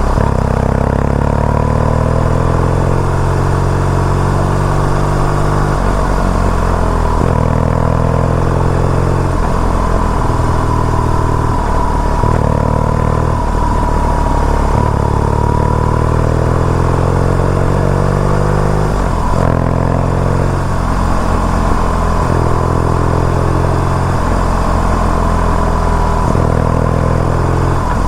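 BMW R nineT's air/oil-cooled boxer-twin engine under way, pulling up through the revs and dropping back at each gear change or throttle roll-off, several times over.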